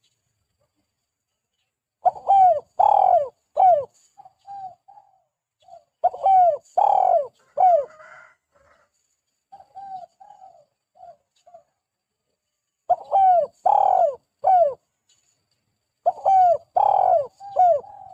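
Spotted dove cooing: four phrases of three low notes each, the middle note the longest and loudest, with soft short notes between phrases. The first phrase comes about two seconds in.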